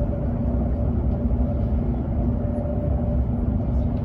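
Running noise of a Hokuriku Shinkansen train heard inside the passenger cabin: a steady low rumble with a constant hum.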